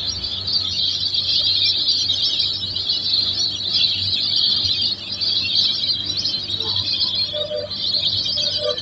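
Many birds chirping at once in a dense, continuous chorus, with a few lower calls near the end.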